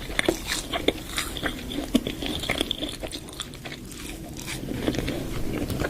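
Close-miked eating: repeated crunchy bites and chewing of crisp food, a quick scatter of short crackles.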